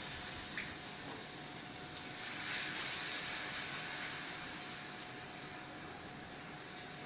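Steady, watery sound from a bowl as a wet batter of sorghum flour, semolina, vegetables and curd is mixed.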